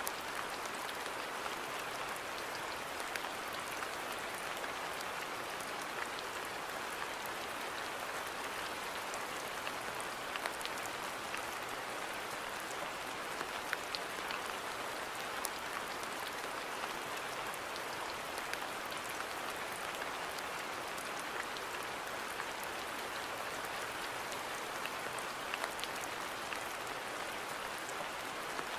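Steady rain falling on a garden, an even hiss with scattered sharp drop ticks from close drops striking surfaces.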